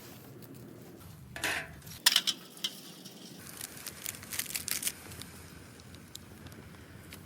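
Clinks and rattles of cookware and utensils: a short scrape about a second and a half in, two sharp clinks just after two seconds, then a run of lighter clinks and rattles.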